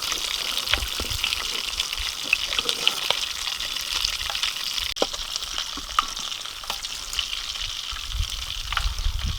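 Food frying in hot oil: a steady sizzle dotted with small crackles and pops, with a few low thumps near the end.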